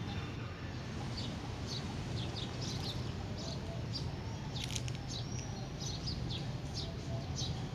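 Small birds chirping repeatedly in short, sharp notes at an uneven pace, with a brief thin whistle about five seconds in, over a steady low background rumble.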